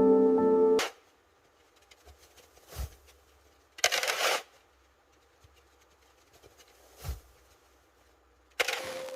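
Soft music ends about a second in. Then come scattered handling sounds: a dull thump, a short crunching scrape, another thump, and near the end a steady rustling noise.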